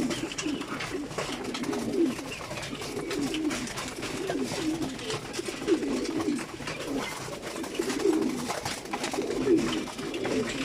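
A flock of racing pigeons cooing together, many overlapping low, warbling coos, with scattered faint clicks among them.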